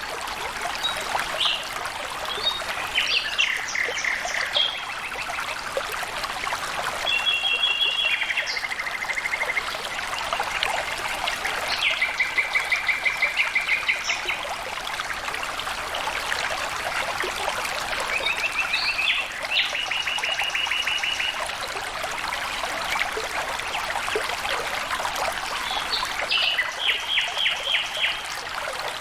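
Water flowing steadily in a stream. A bird sings short, rapid trills of repeated high notes, about five times.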